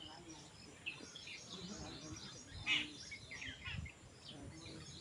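Small birds chirping, many short overlapping calls throughout, with one louder call a little past halfway.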